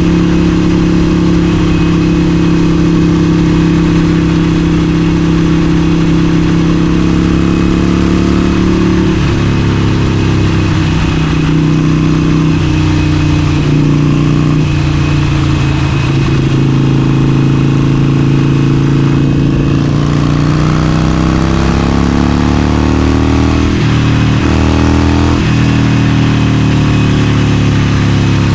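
Harley-Davidson Forty-Eight's air-cooled 1200 cc V-twin running under way at road speed. The engine note eases down about a third of the way in, holds steady, then climbs as the bike accelerates, with two brief breaks in the note near the end like gear changes before it settles again.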